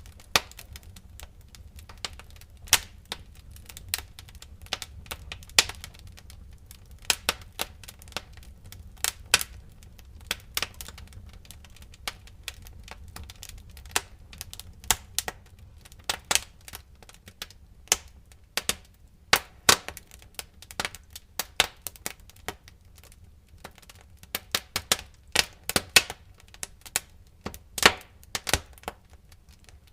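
Wood fire crackling in a fireplace: irregular sharp pops and snaps, sometimes several in a second, over a low steady rumble.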